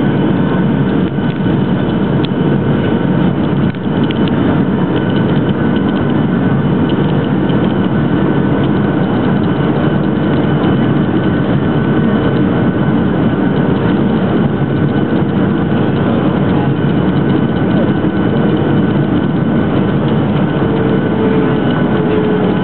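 Cabin noise inside a Boeing 737-700 during its landing: a steady, loud rush of its CFM56 jet engines and airflow, with a few steady whining tones over it. One tone drops slightly in pitch near the end.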